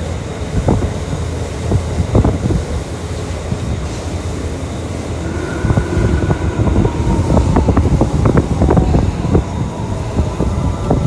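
Electric commuter train on the Tokyu Toyoko Line running at speed, heard from inside the car: a steady low rumble with a dense run of wheel clacks over rail joints or points through the second half, and thin faint squeals over it.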